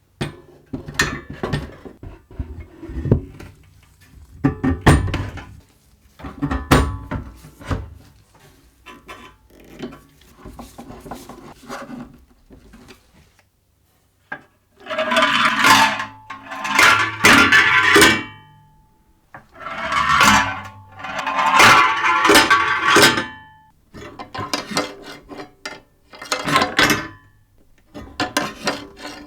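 Metal parts clinking, scraping and knocking as they are handled and worked on, in irregular bursts a second or two long with short pauses between.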